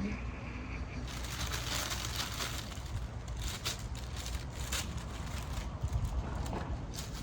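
Street ambience: a steady low traffic rumble, with a crackly hiss of many small clicks setting in about a second in.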